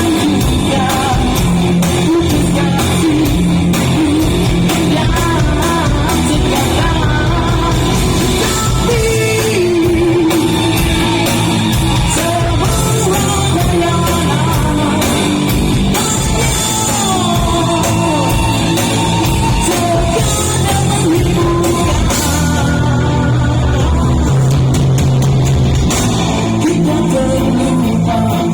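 A man singing a rock song in an old-school rock style, over guitar accompaniment.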